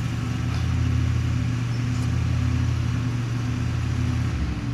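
Lawn mower engine running steadily with a low hum, which drops away suddenly about four seconds in.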